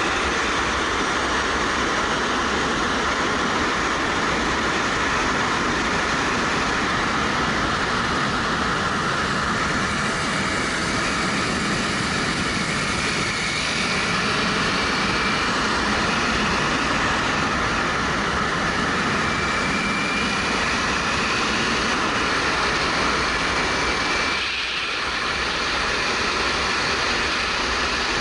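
Steady wind rush over a helmet-side action camera on a moving motorcycle, with the 2013 Suzuki GW250's parallel-twin engine running beneath it. The level dips briefly about 24 seconds in.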